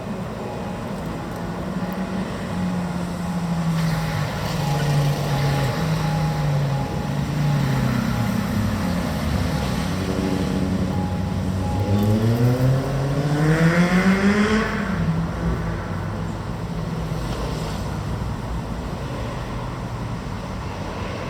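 FLP electric train at the station crossing: its traction motors' hum falls in pitch as it slows over the first half. About twelve seconds in, a steep rising whine follows as it pulls away, then it settles to a steady hum. A thin high tone pulses on and off through the first half, the crossing's warning signal.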